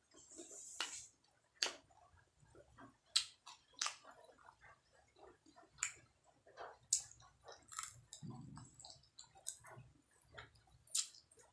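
Close-up chewing and wet mouth sounds of someone eating fried chicken lollipop meat off the bone, with irregular sharp smacking clicks.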